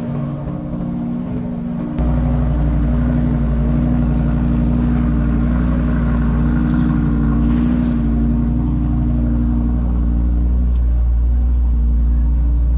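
Car engine idling with a steady low rumble, which gets abruptly louder about two seconds in.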